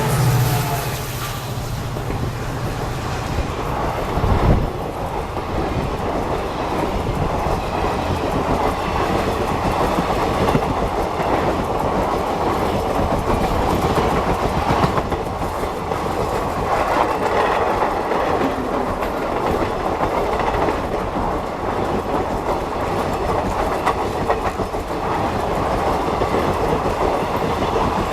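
Passenger coaches of an express train rolling past at speed: a steady rumble of steel wheels on rail with clickety-clack over the rail joints, and one louder knock about four seconds in.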